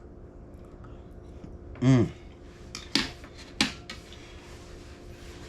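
A fork clinking and scraping against a dish a couple of times while eating casserole, with a short voiced sound from the eater about two seconds in.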